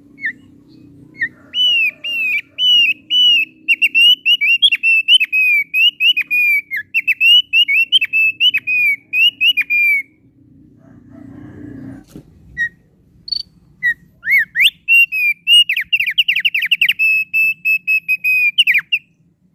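Thick-billed heleia (opior paruh tebal) singing: quick runs of clear, slurred whistled notes, loud and continuous. The song breaks off for a few seconds about halfway through, then resumes at a faster pace. A low steady hum runs underneath.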